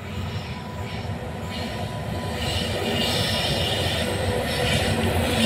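A freight train hauled by two coupled WAG-9HC electric locomotives approaching, its rumble on the rails growing steadily louder.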